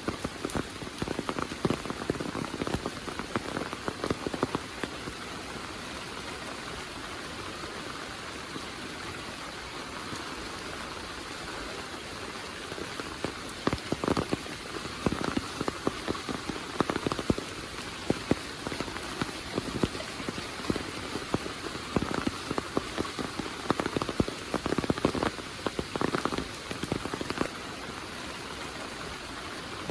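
Heavy monsoon rain falling in a steady hiss, with close, irregular drops pattering on a surface. The patter comes and goes, sparse for a stretch early on and dense again from about halfway.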